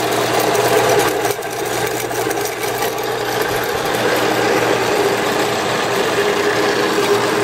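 A 7-inch by 12-inch horizontal band saw with a 115-volt motor running, its motor and blade drive making a steady mechanical hum.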